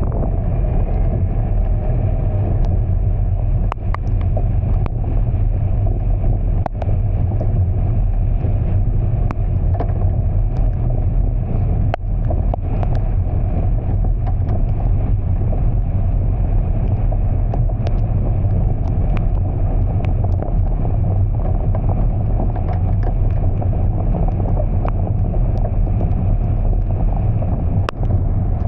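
Steady low rumble of a vehicle moving through heavy rain, with wind noise on the microphone and scattered sharp ticks throughout.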